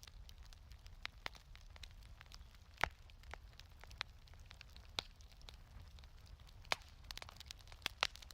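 Wood fire crackling in a fireplace: irregular sharp pops and snaps, the loudest about three seconds in, at five seconds and twice near the end, over a steady low rumble.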